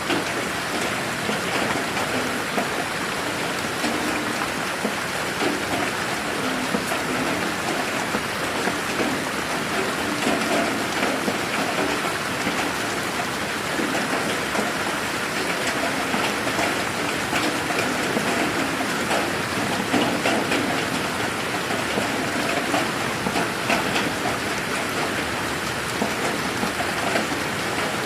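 Steady rain falling in a garden: a dense, even hiss with the patter of countless individual drops.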